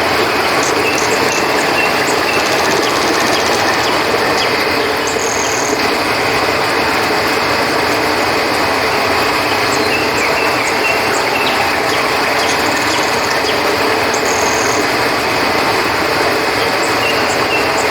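River water flowing steadily, a constant rushing, with short high-pitched insect chirps, typical of crickets, coming and going over it.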